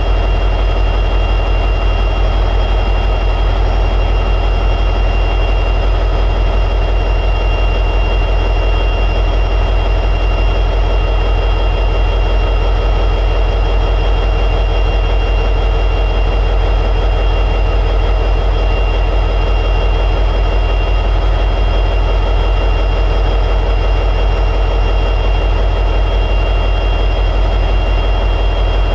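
EMD 710 sixteen-cylinder two-stroke diesel prime mover of an SD60E locomotive running steadily in high idle, a heavy, fast, even throb with a steady high whine over it.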